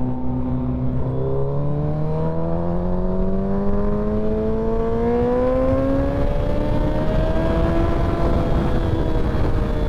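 Sport motorcycle engine accelerating, its pitch rising smoothly over about seven seconds, then levelling off near the end. There is a low rush of wind noise underneath.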